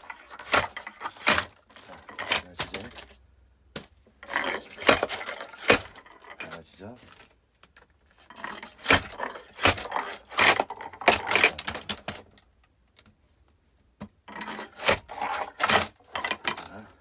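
Repeated metallic clanks of a slide-hammer wedge splitter, its heavy head lifted and dropped onto the blade, with dry oak firewood cracking apart and pieces clattering. The strikes come in four quick bursts with short pauses between them.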